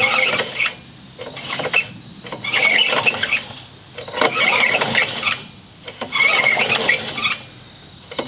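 Recoil starter of a Honda HR216 lawn mower pulled about four times, roughly every two seconds, each pull a whirring rattle of the rope and starter spinning the engine over. It is a spark test and the engine does not fire: there is no spark.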